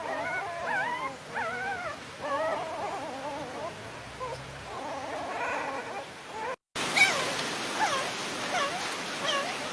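Dogs whimpering and whining, several high wavering cries overlapping one another. After a brief break about two-thirds through come shorter, falling cries.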